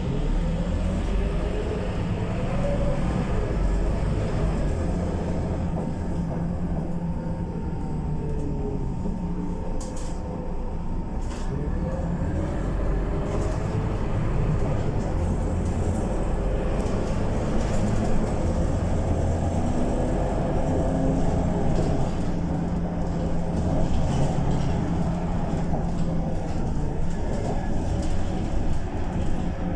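Scania K230UB city bus's five-cylinder diesel engine running under way, its note shifting up and down every few seconds as it pulls away and changes gear, with road and body rattle over it.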